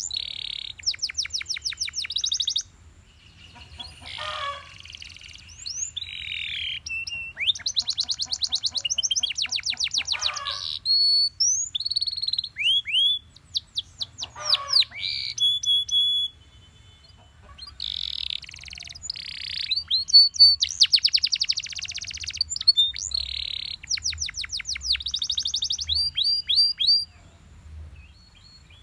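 Belgian canary singing: phrases of very fast trills alternating with rising and falling whistled notes, broken by short pauses of a second or so.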